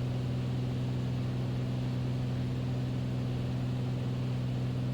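Light airplane's piston engine and propeller droning steadily, heard inside the cockpit, on approach with approach flaps set.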